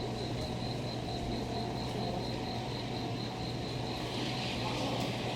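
Crickets chirping in a fast, evenly pulsing high trill over a steady low hum and background noise, as heard from a train.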